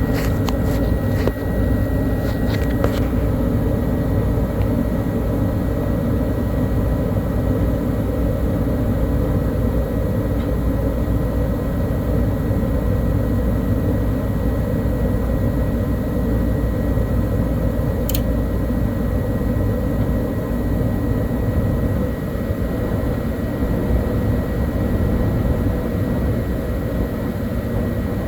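Twinned Carrier gas furnace running, its blower pushing air with a loud, steady rush and hum. A thin high whine fades out in the first few seconds, and a single sharp click comes about two-thirds of the way through.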